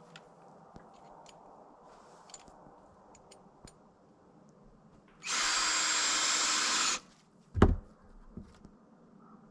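Power drill running in one steady burst of nearly two seconds, then a single heavy thump just after it stops. A few faint ticks and clicks come before.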